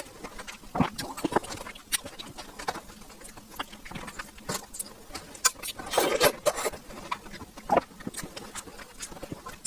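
Close-up eating sounds of a juicy, ripe sugar apple: soft wet chewing and mouth clicks, with a louder, longer wet sound about six seconds in.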